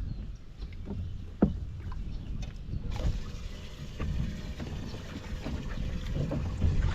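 Wind rumbling on the microphone and water lapping against a boat's hull, with scattered small knocks and one sharper tick about a second and a half in.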